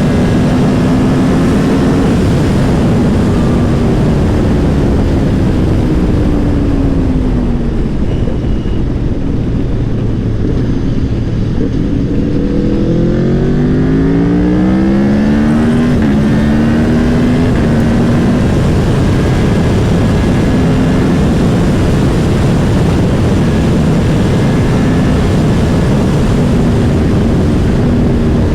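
Aprilia Tuono V4 Factory's V4 engine heard on the move over heavy wind rush. The engine note falls as the bike eases off, then climbs steeply under hard acceleration about halfway through, drops once at a gear change, and holds steady to the end.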